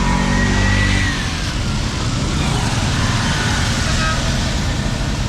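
Road traffic: steady vehicle noise, with a louder engine passing close in the first second or so.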